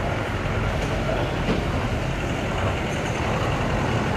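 Steady engine rumble with a continuous rushing hiss.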